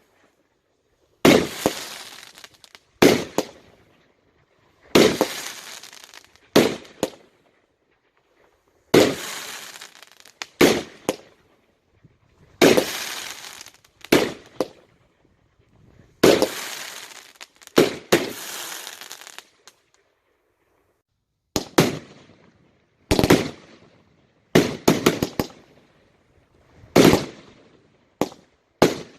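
Fireworks going off: a string of sharp bangs roughly every one and a half to two seconds, each trailing away in a crackling hiss, with a short pause about two-thirds of the way through.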